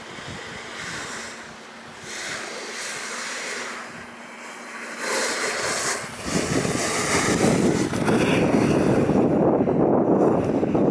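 Wind rushing over the microphone on a moving alpine snowboard run. It swells in steps and turns much louder and fuller about six seconds in.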